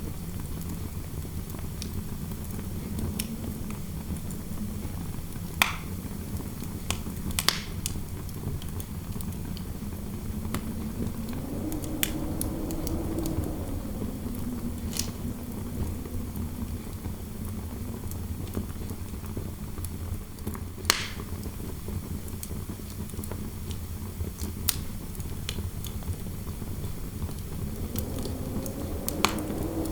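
Fireplace fire crackling, with scattered sharp pops over a low steady rumble, and interior wind howling through the room, a low moan that swells and rises in pitch about halfway through and again near the end.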